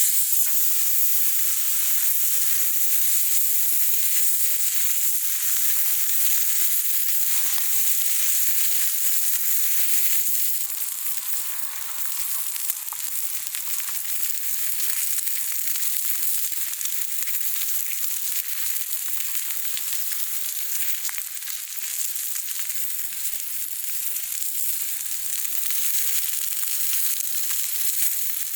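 Meat sizzling steadily as it grills over a campfire.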